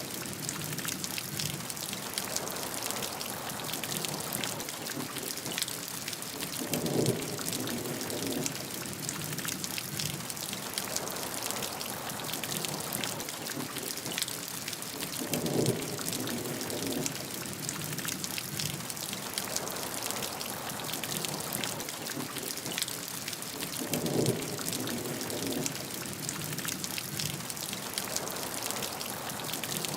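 Steady heavy rain falling, a dense patter of drops. A low swell returns about every eight seconds, three times.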